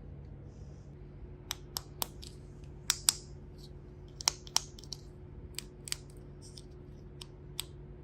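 About a dozen sharp, irregular clicks and taps of hard plastic as a toy microwave is handled, some with a short crackle, over a low steady hum.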